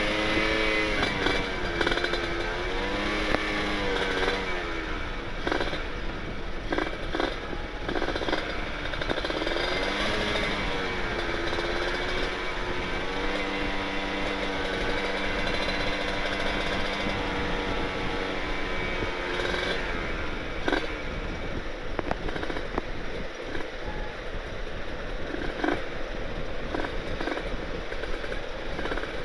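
Kawasaki Ninja 150RR's two-stroke single-cylinder engine riding through an aftermarket Aitech carbon-kevlar expansion-chamber exhaust. The pitch rises and falls repeatedly as the throttle is rolled on and off, holding steadier for several seconds about halfway through.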